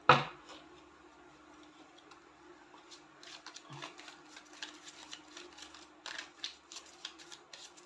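Tarot cards being handled: a sharp tap at the start, then a run of quick light clicks and flicks as cards are shuffled and drawn from the deck, over a faint steady hum.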